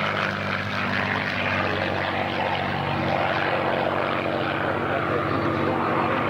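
A propeller-driven WWII fighter's Rolls-Royce Merlin V12 engine drones steadily as the plane flies past low, with a broad rush of propeller noise.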